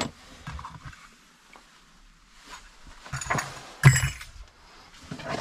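Scattered knocks and clatter of parts being handled and moved. Two louder hits come a little after three seconds and about four seconds in, and the second is a sharp clank that rings briefly.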